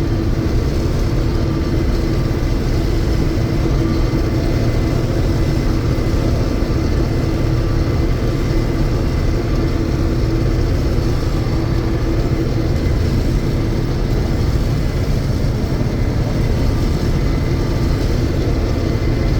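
1982 John Deere 6620 Turbo combine running steadily while harvesting soybeans: a constant engine and machinery drone with a steady hum.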